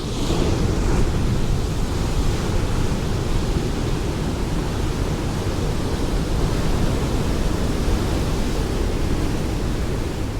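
Ocean waves: a wave breaks right at the start with a hissing rush, and its wash runs on as a steady low surf that eases off near the end.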